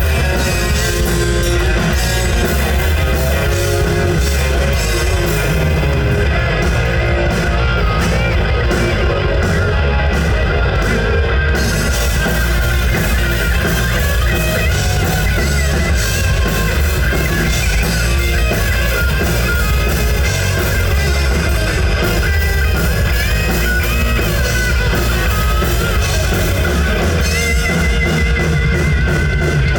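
Live rock band playing an instrumental heavy-metal passage on electric guitars, bass and drum kit, with a lead guitar line of wavering, bending notes.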